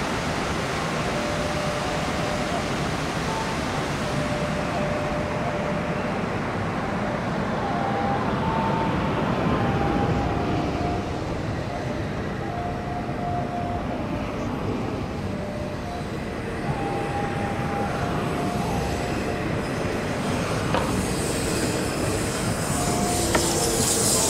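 A train running on rails: a steady rumble with short squealing tones now and then, and a brighter hiss building near the end.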